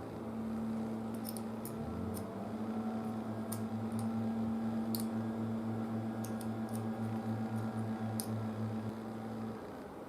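Light, scattered clicks and snips of hand cutters working on a filter capacitor's terminal, over a steady low electrical hum that throbs for several seconds in the middle.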